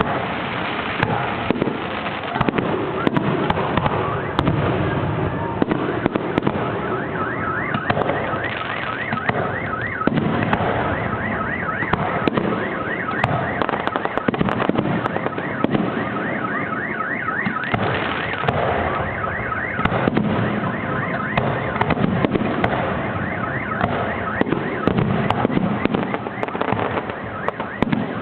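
Fireworks display: a dense, continuous run of bangs and crackles. Through much of the middle, and again near the end, a rapidly repeating rising tone (several a second) sounds over the bangs.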